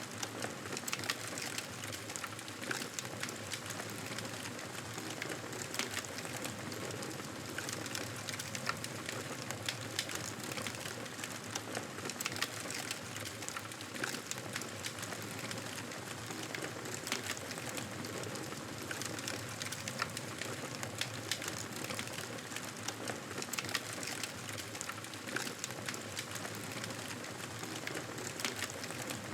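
Wood fire crackling, with frequent small irregular pops and snaps over a steady hiss.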